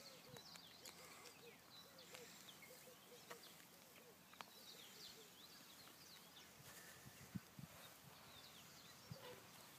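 Faint birdsong: many short, high chirps. A few soft knocks come about seven and nine seconds in.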